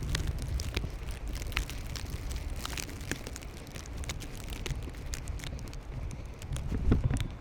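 Blizzard wind buffeting the microphone as a low rumble, with irregular crackling ticks throughout.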